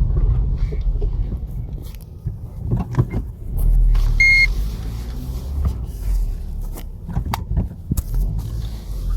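Opel Astra H front left suspension knocking over bumps while driving: irregular dull clunks, like "potatoes in a bucket", over steady low road rumble. The knock comes from play in the shock absorber rod. A short high tone sounds about four seconds in.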